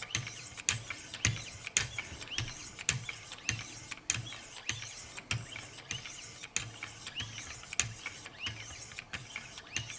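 Wicked Edge guided sharpener's 3000-grit stones stroked along an S90V steel knife edge: a quick, even run of short scraping strokes, each with a sharp click.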